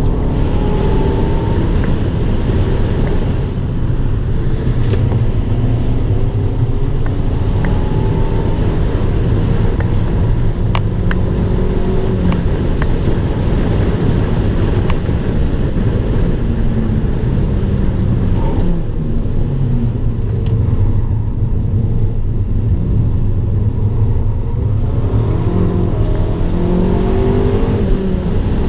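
Abarth 595 Turismo's 1.4-litre turbocharged four-cylinder engine under hard acceleration on track, its pitch climbing and dropping back several times as it is driven through the gears and corners, over a steady low rumble.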